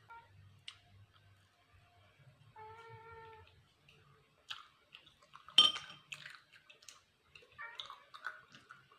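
A cat meowing once, a single held call about three seconds in, among quiet eating sounds: chewing and mouth noises, with one sharp click or knock a little past the middle.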